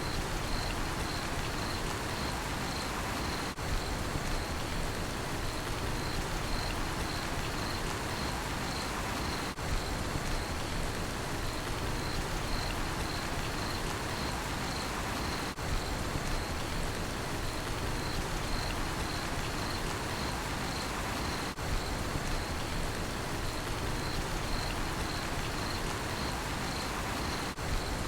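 Steady rain falling with a cricket chirping in an even, rapid pulse over it.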